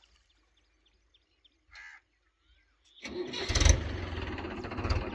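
A crow caws once. About three seconds in, a tractor's diesel engine cuts in loudly and keeps running with a low pulsing.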